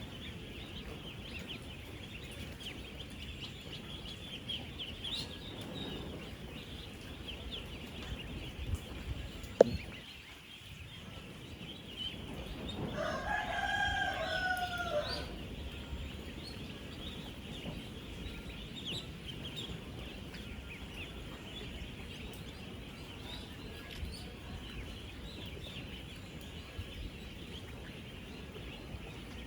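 A dense, steady chorus of peeping from thousands of ten-day-old ducklings. There is a sharp knock just before ten seconds in, and from about thirteen seconds a rooster crows once, a louder call of about two and a half seconds that rises and falls.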